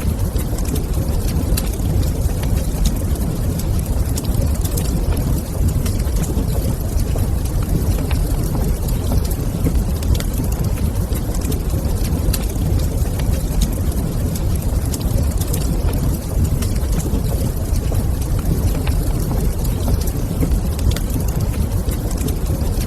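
Wood fire in a fireplace, crackling steadily with scattered sharp pops over a continuous low rumbling roar.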